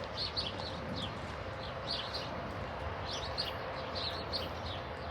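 Small birds chirping repeatedly, many short falling chirps a second, over a steady low outdoor rumble with a faint steady hum.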